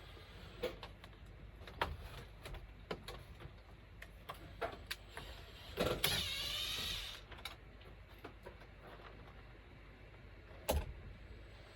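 Handheld power drill running for about a second midway, its pitch wavering, amid scattered knocks and clicks of tools and parts being handled. A sharp knock comes near the end.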